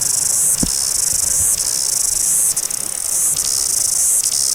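Cicadas singing at close range: a loud, steady, high-pitched buzzing that breaks off briefly about once a second. A single low thump about half a second in.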